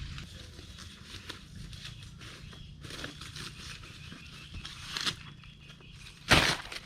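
Dry corn plants crackling and rustling as ears are picked by hand, with one loud crack just after six seconds in.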